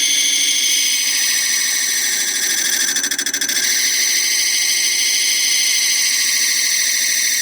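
Metal lathe running while a tool cuts a retaining ring groove into a John Deere 46-inch mower deck spindle: a steady, high-pitched machine whine with a brief dip in level about three seconds in.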